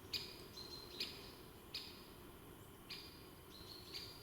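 A bird calling repeatedly in the forest: short, sharp chirps about once a second over a low, steady background.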